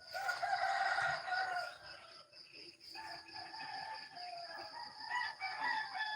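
Rooster crowing twice: a short crow at the start, then a longer, drawn-out crow from about halfway through, over a steady high insect trill.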